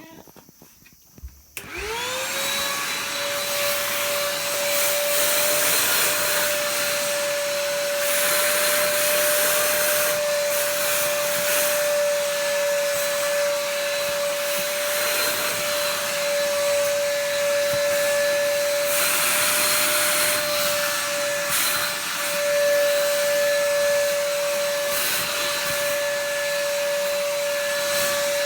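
Vacuum cleaner switched on about a second and a half in, its motor whine rising quickly and settling into a steady pitch over the rush of air. The rushing grows louder now and then, as the suction changes.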